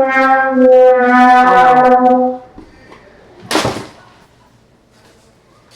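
A few held notes on a brass-like horn, each note level and the tune stepping in pitch, ending about two and a half seconds in. About a second later comes one short, loud rushing noise.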